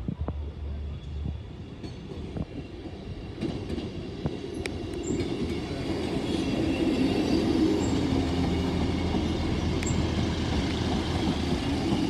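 Class 158 diesel multiple unit crossing a level crossing: the diesel engine runs and the wheels rumble on the rails. It grows louder as the train draws near and stays at its loudest from about six seconds in as the carriages pass.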